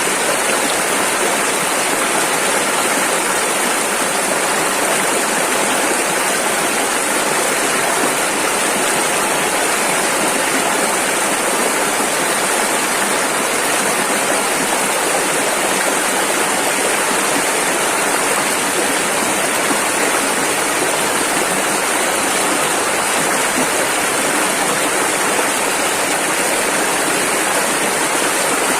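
Rushing river water: fast-flowing rapids making a loud, steady, unbroken rush.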